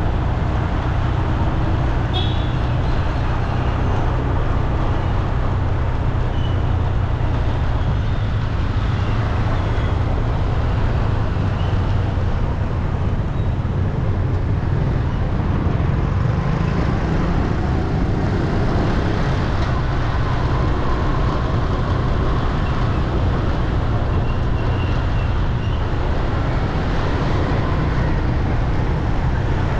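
Steady city traffic noise: a continuous low rumble of road vehicles.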